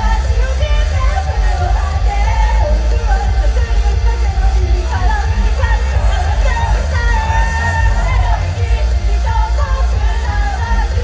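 Live band music with a singer, a heavy, loud bass end, and shouted vocals.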